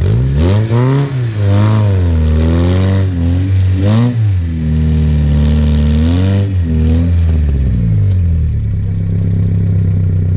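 Off-road vehicle's engine revving up and down several times in quick swells, then settling to a steady low run near the end.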